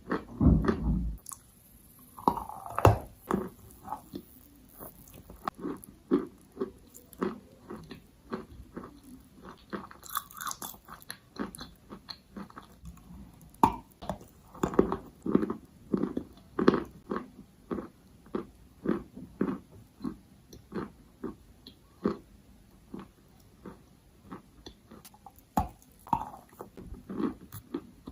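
Edible chalk being bitten and chewed close to the microphone: a steady run of sharp, dry crunches and clicks, with a louder bite in the first second.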